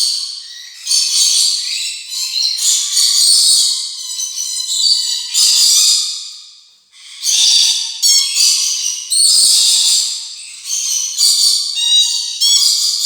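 Rainbow lorikeets chattering and screeching: shrill, harsh calls in quick runs, with a short lull about halfway through.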